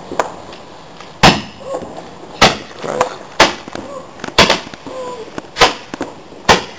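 Fireworks going off: six sharp bangs at roughly one-second intervals.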